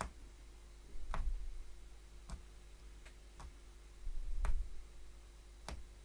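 A punchcraft hollow needle stabbing through stretched fabric, six sharp clicks at irregular spacing, about one a second.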